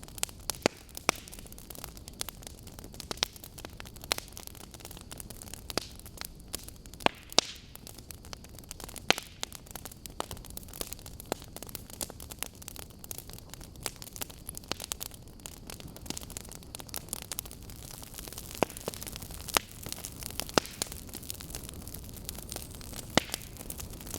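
Burning wood logs crackling: irregular sharp pops and snaps, a few much louder than the rest, over a steady hiss.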